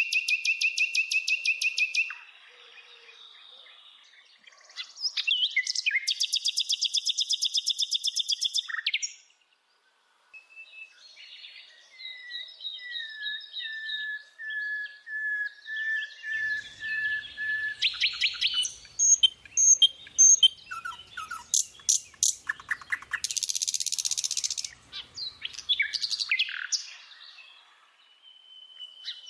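A bird singing a varied song: two fast, loud trills in the first nine seconds, a short gap, then a long run of repeated whistled notes that slowly fall in pitch. Near the end it breaks into mixed chirps, clicks and a buzzy rattle.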